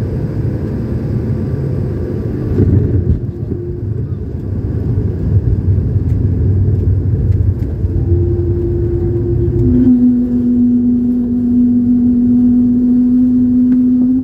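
Cabin noise inside an Airbus A220-300 airliner: a steady low rumble, whose higher hiss drops away about three seconds in. From about ten seconds in, a steady low hum joins it.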